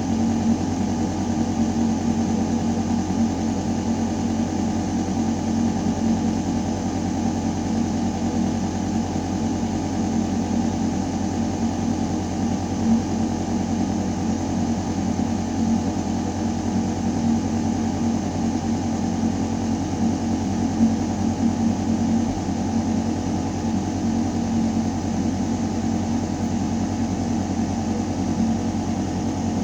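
Building ventilation system running: a steady, deep mechanical hum with air rushing through metal ductwork, unchanging throughout.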